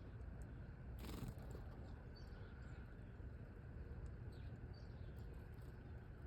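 A few faint, short, high bird chirps over a steady low outdoor rumble, with a brief noisy burst about a second in.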